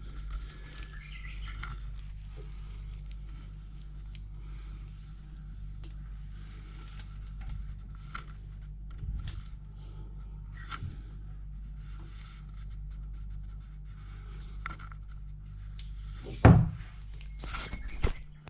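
Scattered small clicks and rubbing of objects being handled over a steady low hum, with a loud knock about sixteen seconds in and a smaller one shortly after.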